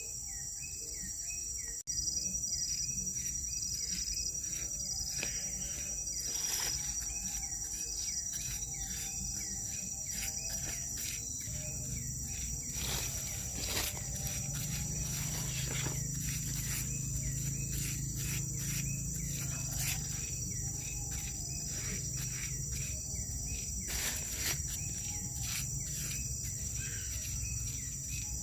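Steady high-pitched insect chorus of crickets trilling without a break, with scattered short knocks or scrapes mixed in.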